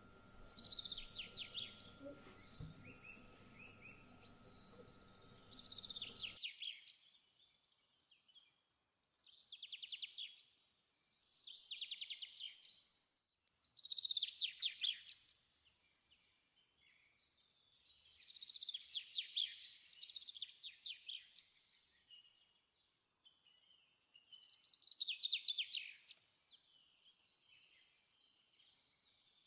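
A small bird singing short, rapid trilling phrases, one every two to four seconds. A faint steady hum underneath cuts off about six seconds in.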